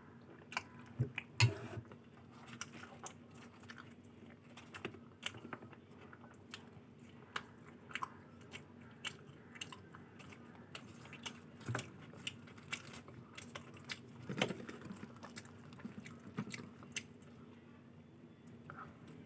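A person chewing and biting food close to the microphone: irregular wet mouth smacks and crunchy clicks, over a faint steady hum.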